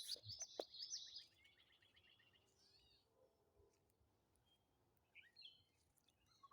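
A songbird singing a fast trill of high notes that drops a little in pitch and fades out over about two seconds, followed by a few faint chirps near the end.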